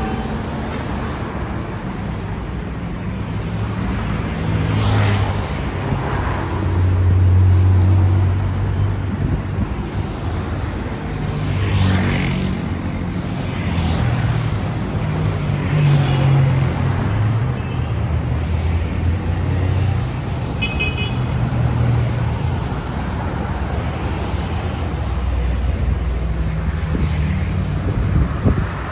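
Street traffic: cars and other vehicles driving past with engine rumble and tyre noise, several passing close one after another. A short, high beeping comes in about two-thirds of the way through.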